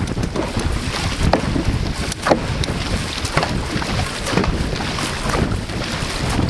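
Dragon boat paddles striking and pulling through the water in a steady stroke rhythm, about once a second, under heavy wind buffeting on the microphone.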